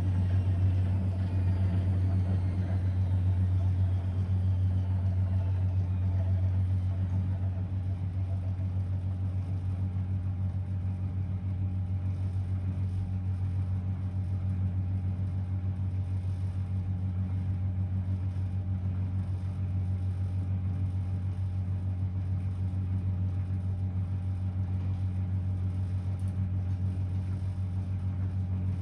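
Blomberg WA391 washing machine spinning at high speed: a steady, loud drum-and-motor hum, with a high whine that falls in pitch over the first few seconds.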